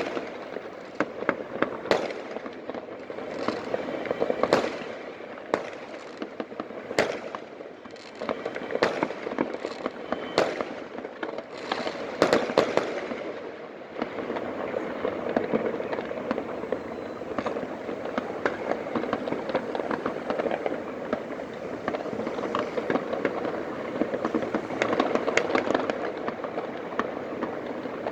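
Fireworks and firecrackers going off across a city at night: a dense crackle with many sharp pops scattered through it. The crackle thickens and evens out about halfway through.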